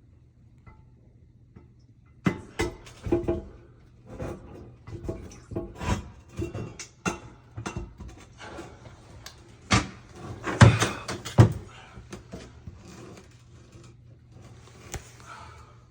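Toilet being set onto its wax ring and worked into place: a string of knocks, clunks and scrapes starting about two seconds in, loudest around ten to eleven seconds in, over a faint steady hum.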